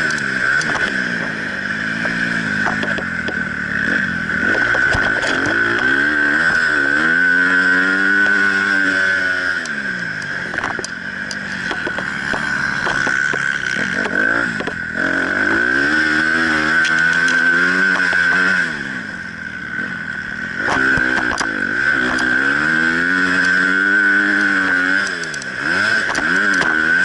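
Honda CRF250 motocross bike's single-cylinder four-stroke engine heard onboard, revving up hard and dropping back again and again as the rider opens and closes the throttle around the track, with brief lulls when the throttle is shut and a few sharp clatters.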